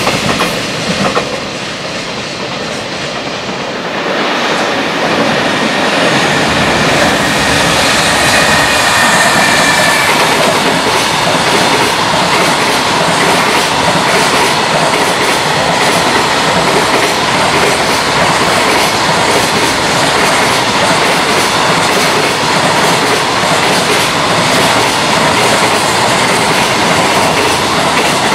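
A long freight train of container wagons passing at speed, its wheels clattering over the rail joints in a steady clickety-clack. The sound is quieter for the first few seconds, then loud. A thin wheel squeal rises briefly about eight seconds in.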